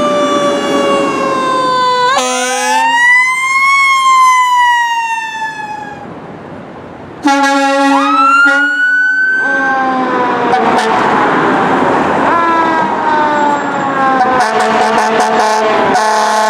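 Fire truck sirens wailing, rising and falling in long slow sweeps, with short steady blasts of the trucks' air horns cutting in about two seconds in, again around seven to nine seconds, and as a choppy run near the end.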